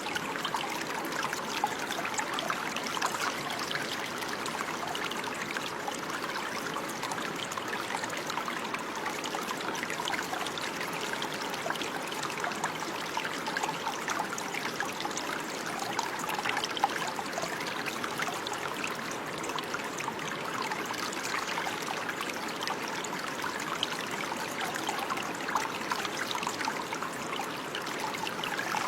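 Running water flowing and trickling steadily, a close, busy splashing with many small sharp droplet sounds.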